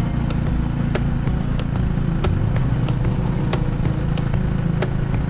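Honda Rebel 250's single-cylinder engine running steadily. Sharp ticks come evenly over it, about every half second.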